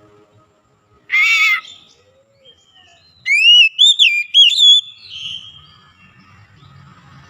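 Oriental magpie-robin singing: one short whistled phrase about a second in, then a run of loud whistled notes that rise and fall, trailing off softly near the middle of the clip.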